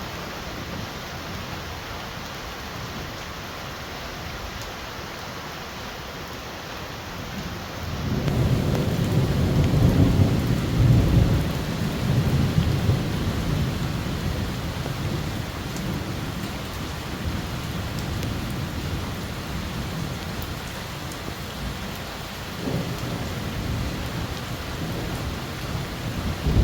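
Heavy rain falling steadily. About eight seconds in, a long roll of thunder rumbles in, peaks and slowly fades over several seconds, with a smaller rumble near the end.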